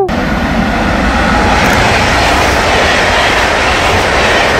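Train sound effect: a loud, steady rushing rumble of a train running, with no clear tones.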